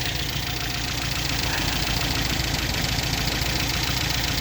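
MGB's 1.8-litre B-series four-cylinder engine running steadily at a fast idle with the choke tied fully on, running super rich.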